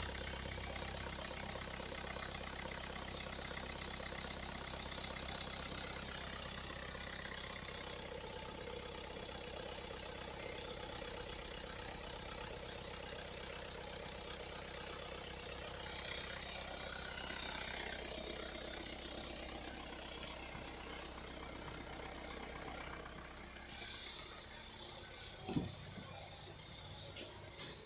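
Hyundai Santa Fe 2.2-litre four-cylinder diesel engine idling steadily, showing it runs at 251,041 km. About twenty-three seconds in the sound falls away, followed by a few short knocks near the end.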